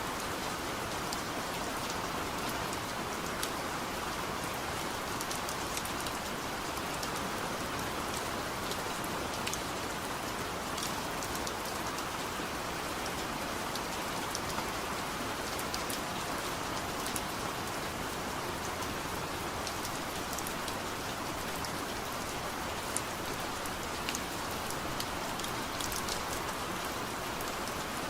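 Heavy rain falling steadily, a constant even hiss with individual drops ticking sharply on a surface.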